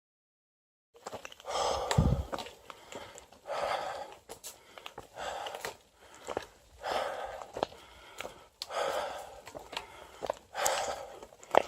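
Heavy, laboured breathing close to the microphone, a breath about every two seconds, with a low thump about two seconds in.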